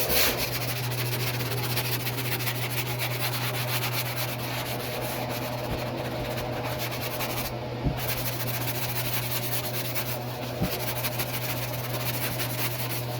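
Power sander running steadily on the body panel, a constant motor hum under a fast, gritty rubbing. The rubbing drops away briefly about eight and ten seconds in.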